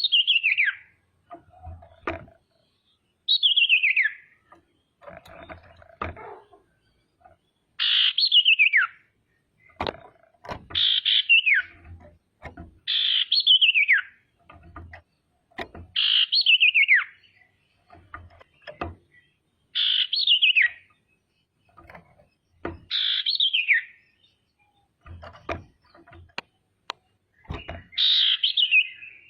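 Female common iora (sirtu, cipoh) calling: about nine separate calls, each a note of about a second that slides down in pitch, repeated every two to four seconds. Faint clicks and soft knocks come between the calls.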